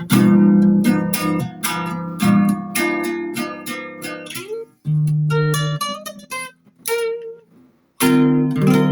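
An improvised piece on a plucked string instrument: runs of single notes and chords, with a brief pause near the end before the playing resumes.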